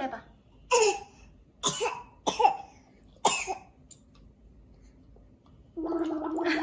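A small child coughing in short sharp bursts, five of them in the first few seconds. After a pause, a long drawn-out voice sound starts near the end.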